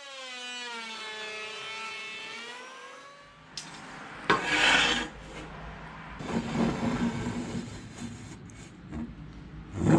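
Tool cutting across the face of an ash slab to flatten it, heard as a series of rasping, scraping strokes of uneven loudness. It is preceded by a pitched tone that wavers slightly and lasts about three seconds.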